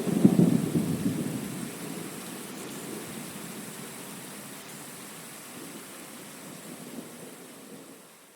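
Thunderstorm recording: a peal of thunder rumbles over steady rain, loudest about a second in and then dying away, leaving the rain hiss, which fades out near the end.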